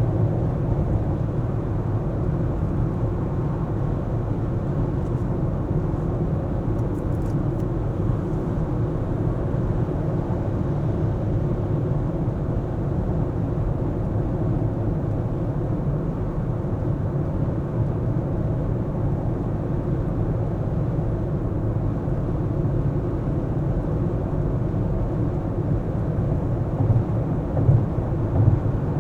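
Car driving: a steady low rumble of engine and tyre noise, with a few louder bumps near the end.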